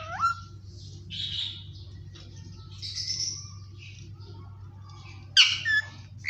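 Indian ringneck parakeet calling: a short gliding squawk at the start, softer raspy chatter in between, and a loud sharp squawk about five seconds in, over a low steady hum.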